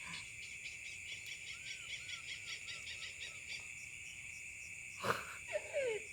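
Steady chorus of night insects such as crickets, a constant high trilling drone. Partway through comes a faint run of about six short, arched chirps, and about five seconds in there is a brief louder sound with falling sweeps.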